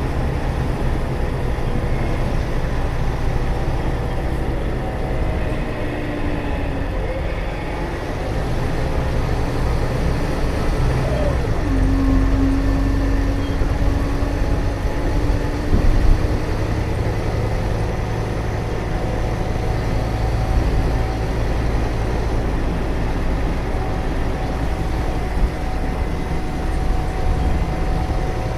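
Scania K320UA bus's rear-mounted 9.3-litre five-cylinder turbo diesel running steadily, with road noise. About eleven seconds in, a whining tone drops in pitch and then holds for a few seconds, and the low rumble grows louder.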